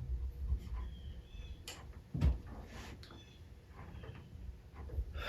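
Small metal parts and hand tools being handled during engine assembly: scattered light clicks and clinks, some with a brief metallic ring, and one dull knock about two seconds in.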